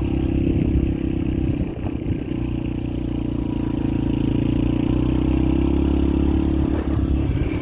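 Yamaha TT-R125LE dirt bike's air-cooled single-cylinder four-stroke engine running under way, easing off briefly about two seconds in, then holding a steady note.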